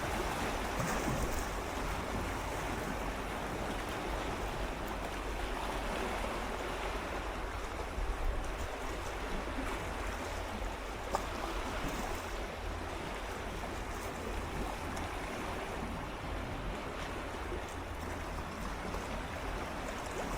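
Gentle sea waves swirling and lapping against shoreline rocks, a steady wash of water with small swells and faint splashes, over a low wind rumble on the microphone.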